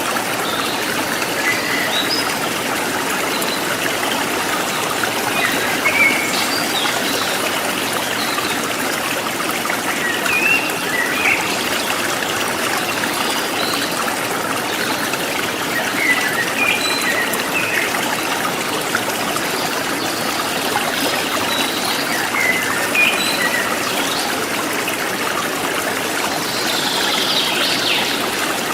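River water flowing and trickling steadily, with short high-pitched notes scattered through it.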